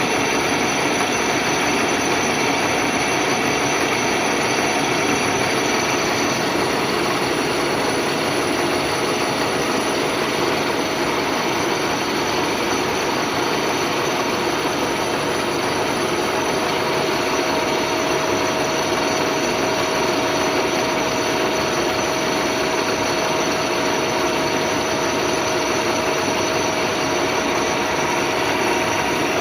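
WMW Heckert GFLV 250 x 2000 thread milling machine running under power: a steady mechanical hum with a few constant whining tones. A higher whine fades about six seconds in.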